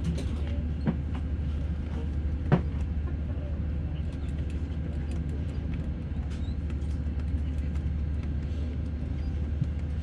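Steady low hum inside the cabin of an Airbus A319 standing on the ground, with a couple of sharp knocks, the loudest about two and a half seconds in.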